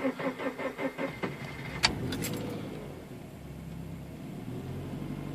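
A 2013 Scion FR-S's 2.0-litre flat-four being cold-started at about 15 °F: the starter cranks in rapid pulses for about two seconds, then the engine catches and settles into a steady idle. It is a clean cold start on the Hydra EMS base map, heard from inside the cabin.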